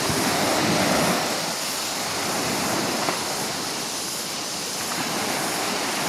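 A steady rushing noise, spread evenly from low to very high pitch.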